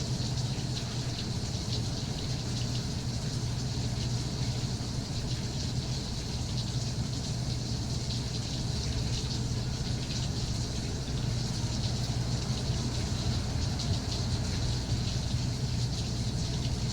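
Steady rain falling, a continuous hiss full of tiny drop ticks, over a steady low hum.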